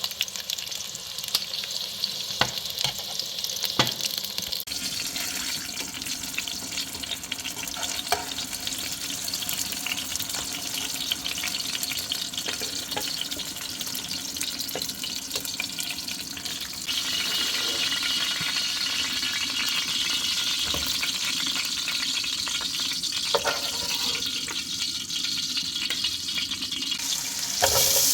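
Food sizzling in a hot pan while being stirred, with scattered clicks of a utensil against the pan. The sizzle steps up louder about two-thirds of the way through.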